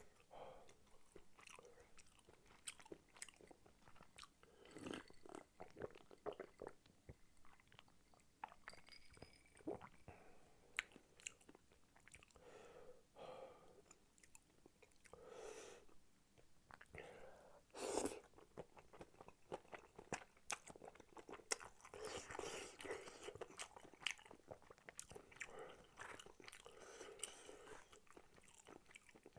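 Close-miked chewing of spicy tteokbokki: soft, wet mouth sounds with many small clicks, faint overall, busier in the second half.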